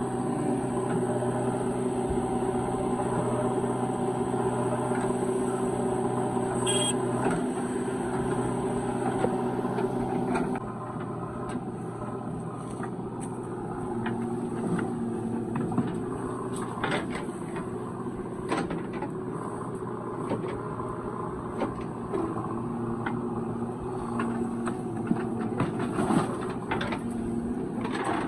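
Heavy diesel machinery running steadily. About ten seconds in the engine note drops a little, and scattered knocks and clanks follow.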